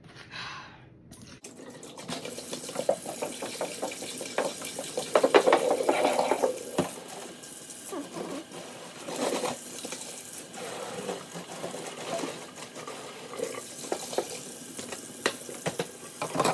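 Liquid pouring and splashing into a sink, starting about a second and a half in and going on steadily with uneven surges.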